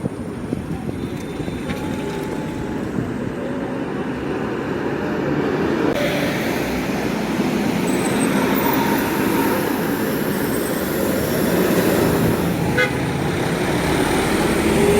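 Roadside traffic with a heavy vehicle, likely a bus, passing: engine and tyre noise that gets louder from about six seconds in, with short horn toots.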